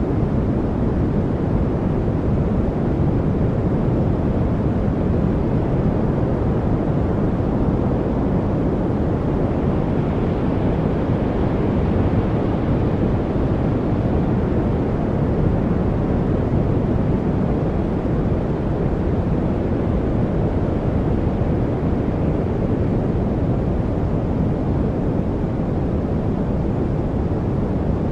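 Steady white-noise study track: an even, deep rushing hiss, heavier in the low end than the highs, with no breaks or changes.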